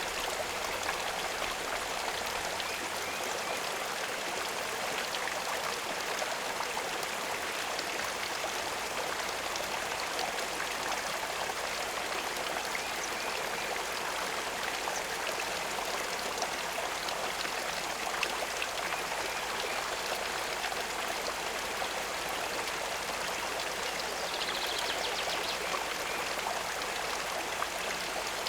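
Steady running water, an even splashing and trickling flow into a pond.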